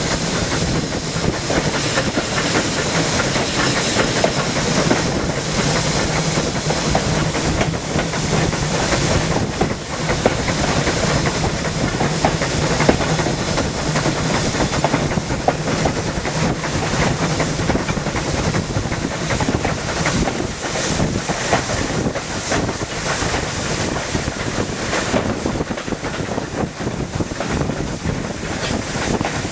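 Steam train running, with a steady hiss of steam and the clatter of wheels on the rails.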